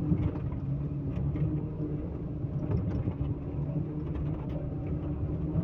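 Heavy diesel engine running steadily at a constant speed, with a low rumble and a few light knocks over it.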